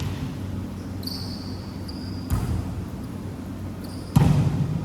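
Basketball bouncing on the court floor: two low thuds about two seconds apart, the second louder. A short high squeak comes about a second in, like sneakers on the floor.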